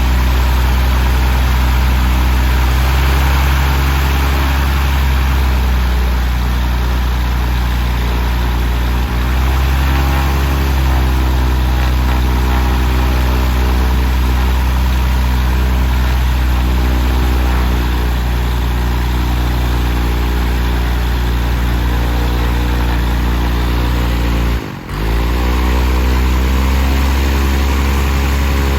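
Propeller-driven aircraft engine running steadily on its first run in the airframe, with the propeller turning, at an even speed. The sound briefly drops out and comes back about 25 seconds in.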